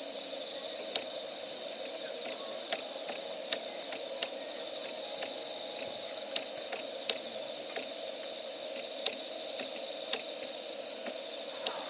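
Wood fire crackling in a fire pit: sharp, irregular pops, about a dozen of them, over a steady high-pitched hiss.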